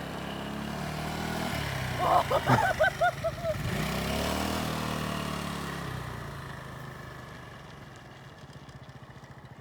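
Motorcycle engine running as the bike rides past, its pitch rising as it approaches, then falling and fading as it moves away. About two seconds in there is a brief, loud run of short higher-pitched sounds.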